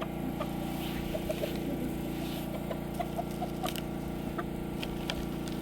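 A steady mechanical hum, like a motor or engine running, with a few faint short chirps and clicks over it.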